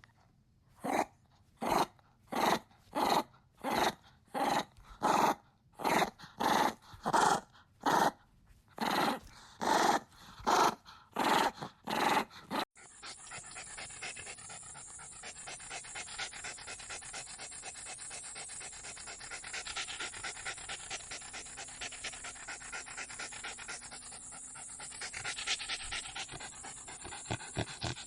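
A dog barking, a steady run of barks about two a second, which stops abruptly about halfway through; then a dog panting quickly and steadily.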